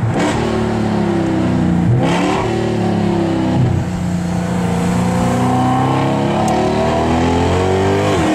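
Mercedes C63 AMG Black Series 6.2-litre V8 with an iPE exhaust accelerating hard, heard from inside the car. The engine note climbs and breaks at upshifts, about two seconds in, again about two seconds later, and near the end.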